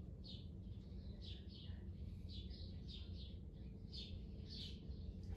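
Faint bird chirps, short and high, repeating two or three times a second over a low steady hum.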